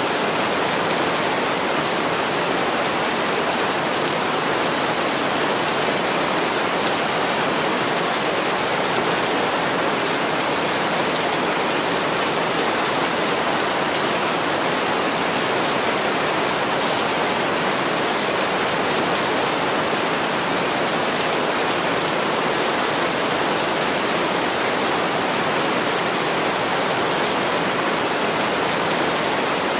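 Heavy rain falling steadily on a window, an even, unbroken hiss with no change in level.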